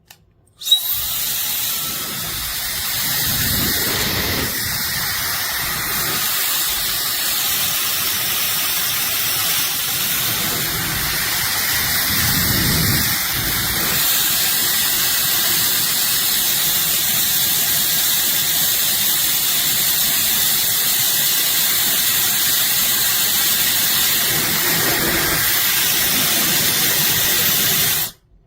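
SUPGALIY 1500 W dual-voltage travel hair dryer running: a steady rush of air with a faint high whine, switched on with a click about a second in, a little louder from halfway, and cut off suddenly near the end.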